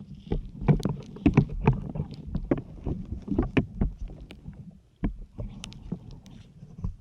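Syringe needles being pushed into a dense grey sponge at random: an irregular run of close-miked pokes and rubs, several a second, with a brief pause about five seconds in.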